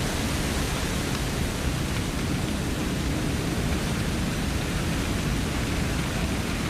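Steady rushing noise of water jetting from an airport crash-rescue truck's roof turret, with a heavy low rumble beneath.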